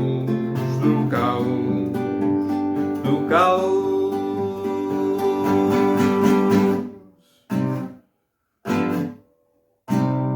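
Acoustic guitar strumming the closing chords of the song, cutting off about seven seconds in. Two short stopped chords follow with silence around them, and a final chord is struck near the end and left ringing.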